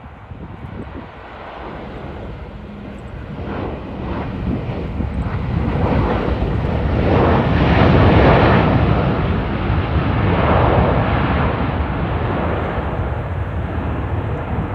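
Boeing 737-800's twin CFM56 jet engines during landing, the noise swelling over several seconds to a peak about eight seconds in and staying loud as the airliner goes by.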